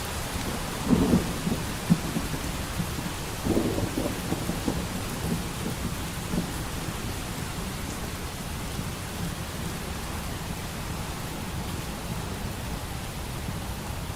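Steady rain with a roll of distant thunder that swells about a second in, rumbles on again from about three to five seconds in, and dies away.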